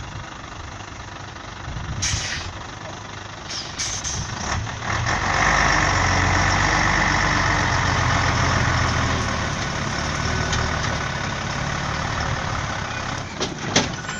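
Scania 112H 6x6 truck's diesel engine pulling hard under load, rising in revs about five seconds in and holding strong for several seconds as it drags a trailer out of deep loose dust. A short hiss about two seconds in and a couple of sharp knocks near the end.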